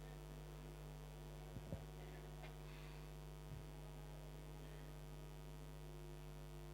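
Steady electrical mains hum, with a few faint soft knocks about a second and a half in and again at about three and a half seconds.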